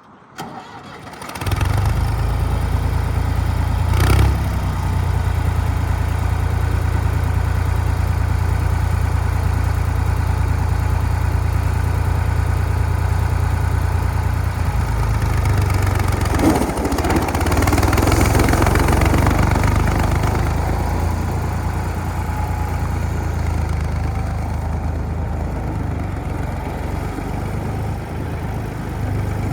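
Ford 4610 tractor engine starting, catching about a second in and then running steadily at idle. There is a single knock about four seconds in.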